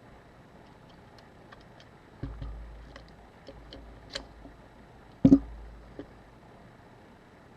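Scattered small clicks and taps of a Canon AE-1's metal body and mirror box being handled as the mirror box is worked free, with a few light knocks and a sharper knock about five seconds in.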